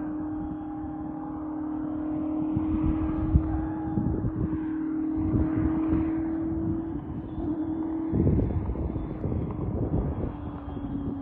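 High-performance car running flat out down a runway toward the microphone, its engine a steady drone that steps up about seven seconds in and drops near the end, with wind buffeting the microphone.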